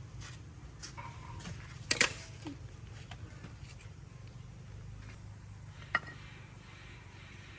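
Two sharp knocks, the louder about two seconds in and another about six seconds in, with a few fainter clicks over a low steady hum.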